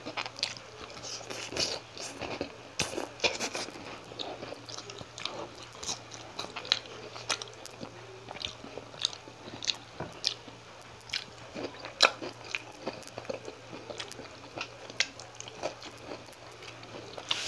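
Close-miked chewing and crunching of crispy fried milkfish (bangus) and raw long green chili pepper, with frequent irregular sharp crunches; the loudest comes about twelve seconds in.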